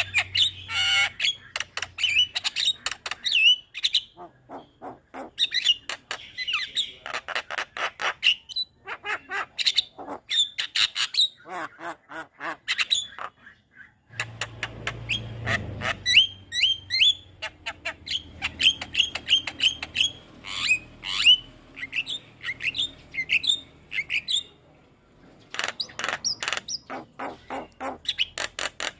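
Javan mynas singing: rapid runs of harsh clicking and chattering notes mixed with short whistles, broken by brief pauses.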